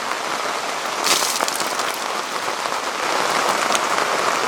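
Heavy thunderstorm downpour, a steady hiss of rain with a brief cluster of sharper, closer drop hits about a second in.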